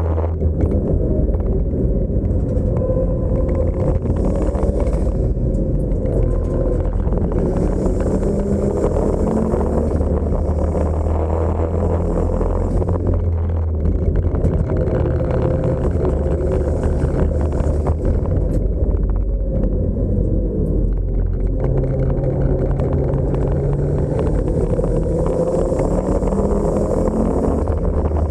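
Car engine running hard at track speed, heard from inside the cabin along with road and wind noise. The engine note shifts down and back up several times as the car brakes and accelerates through the corners.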